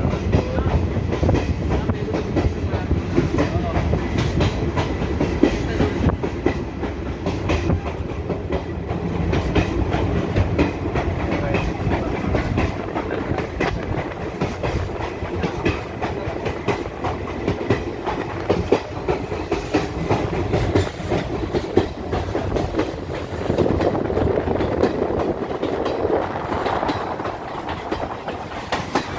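Passenger express train running along the track, heard from aboard a coach: a steady rumble of the coaches with the clickety-clack of wheels over the rail joints.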